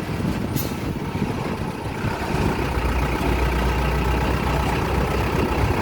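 Truck engine running steadily with a low rumble, its deep hum growing stronger about two and a half seconds in. A brief click comes about half a second in.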